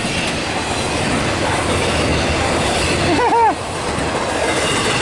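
Norfolk Southern intermodal freight train's cars rolling past, a steady rumble of steel wheels on rail. A brief voice cuts in about three seconds in.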